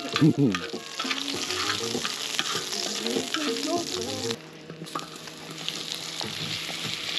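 Food frying in oil, a steady sizzle with small crackles. About four seconds in it drops away briefly, then comes back stronger.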